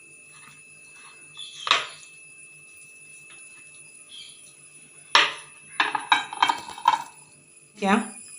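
Scattered clinks and knocks against a mixing bowl as raw chicken pieces are mixed with egg and flour batter, with a quick cluster of them a little past the middle.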